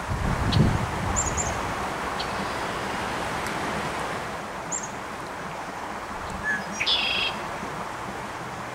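Small birds chirping a few times: quick high chirps about a second in and again near five seconds, then a fuller short call around seven seconds. They sound over a steady rushing background noise, with a brief low buffet just after the start.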